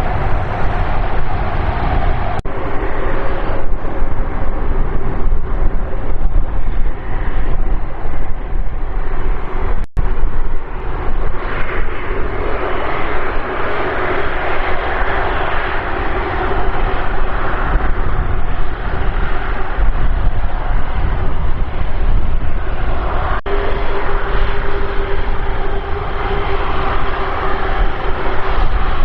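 Airbus A330 freighter's jet engines running steadily, a loud even rush with a steady hum underneath. A brief break in the sound comes about ten seconds in.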